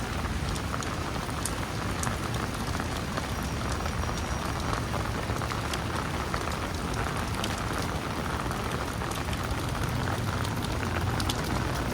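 Steady rain falling on a city street, with many small drop ticks over a low, continuous rumble.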